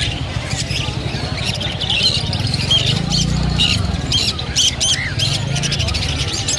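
Many caged birds chirping and calling together: a dense run of short, high calls, with people talking low underneath.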